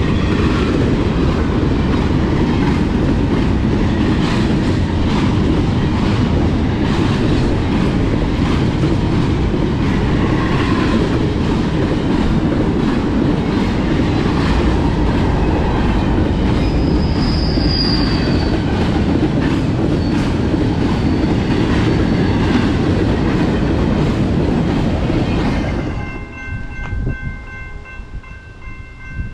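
A train rolling past close by, its wheels clacking steadily over the rail joints, with a brief high wheel squeal about two-thirds of the way through. Near the end the rumble cuts off suddenly, leaving a train horn sounding a steady chord.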